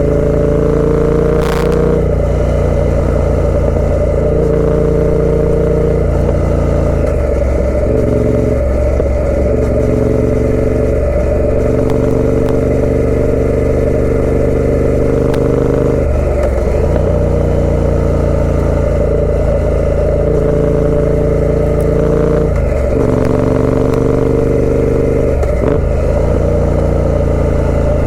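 Triumph Speed Twin 900's parallel-twin engine running through a British Customs aftermarket exhaust while riding. The pitch holds or climbs and then drops off sharply about half a dozen times as the throttle is rolled on and off through gear changes.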